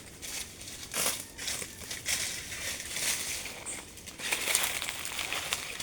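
Irregular crinkling and crunching rustles, coming in a series of short bursts.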